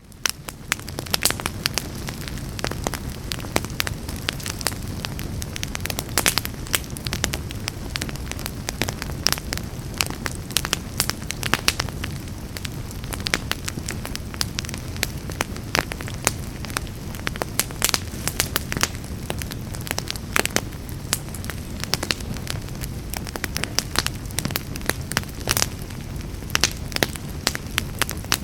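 Fireplace fire burning: a steady low rumble of flames with frequent sharp crackles and pops. It swells up from quiet over the first second.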